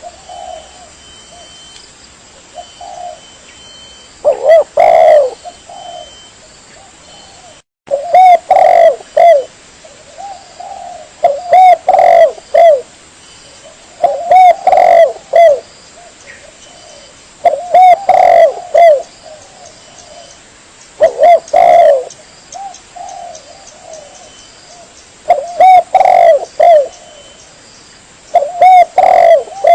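Spotted dove (tekukur) cooing as a recorded lure call: loud coo phrases about a second long, repeating roughly every three to four seconds, with softer short coos between them.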